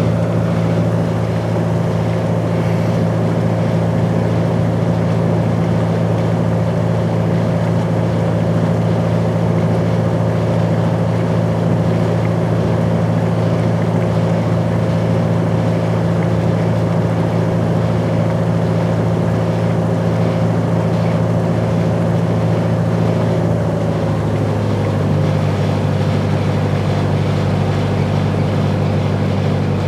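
Engine of a sightseeing boat running steadily with a low droning hum, heard from inside the passenger cabin. About 24 seconds in, its pitch shifts and drops slightly.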